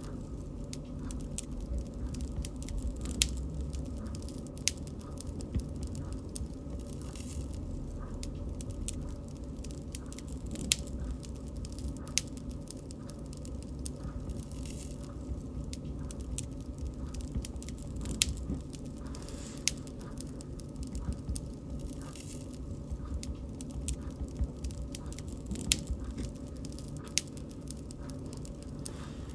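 Wood bonfire burning and crackling: a steady low rumble of flame with frequent irregular sharp pops and snaps, a few of them louder than the rest.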